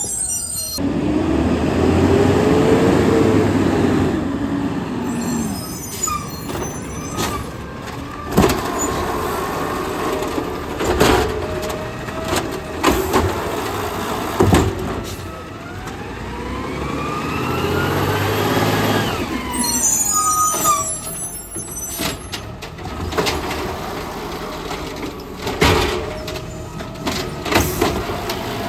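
Garbage truck at work: its engine revs up and back down twice, with sharp bangs and knocks in between and short air-brake hisses.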